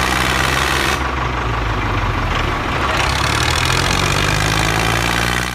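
Engine idling steadily with an even low hum, cutting off abruptly near the end.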